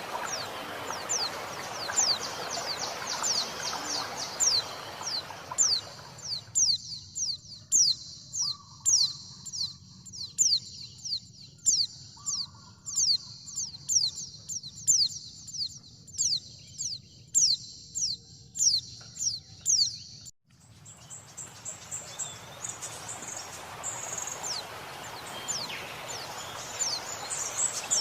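A female white-eye (pleci) calling in a long, even series of thin, high, downward-sliding notes, about two a second. Running water hisses beneath at the start and end but drops out through the middle.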